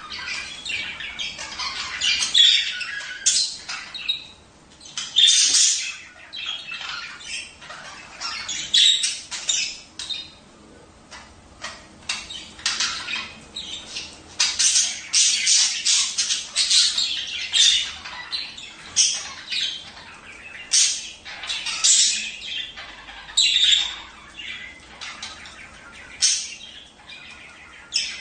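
Budgerigars chattering and squawking, a dense, irregular run of short high calls and chirps that overlap one another.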